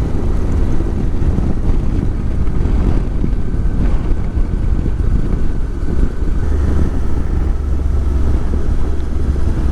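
Motorcycle riding at road speed: wind rushing over the microphone, with the bike's engine running underneath. The low rumble swells about two-thirds of the way through.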